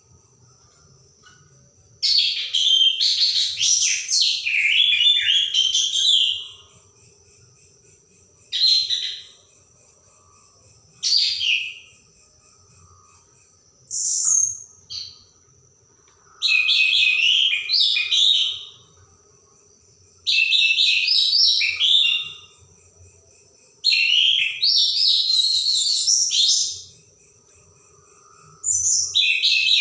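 Orange-headed thrush (anis merah) singing in sharp, varied phrases of one to four seconds, about eight of them, with gaps of a second or two between.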